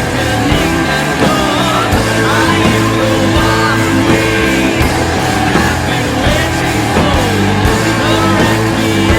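Rock band playing an instrumental passage: guitars, bass and drums at a steady loud level.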